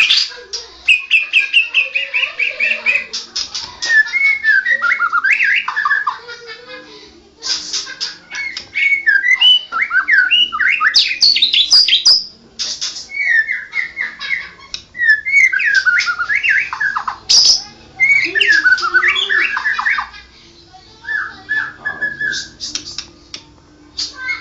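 White-rumped shama (murai batu) singing: loud, fast-changing phrases of whistles, trills and sweeping notes, in bursts of a second or three with short pauses between. The bird is in heavy moult and its song lacks the loud 'shot' notes.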